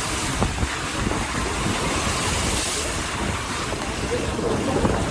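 Storm wind gusting and buffeting the microphone, over a steady rushing hiss.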